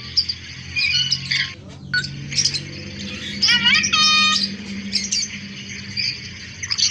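Cockatoo squawking in short calls that rise in pitch, one about a second in and another near four seconds in, over high chirping and a low steady hum.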